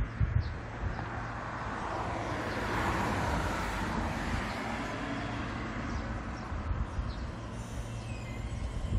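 Donghae Santa tourist train approaching slowly, with a low rumble of the train and its wheels. A broad rushing noise swells about three seconds in and fades again.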